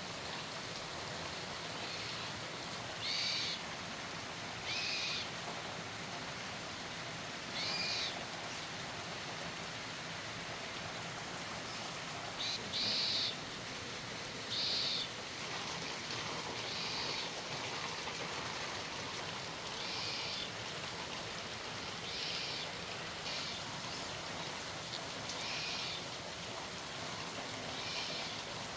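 A bird giving short, high calls over and over, about one every one to two seconds, over a steady background hiss.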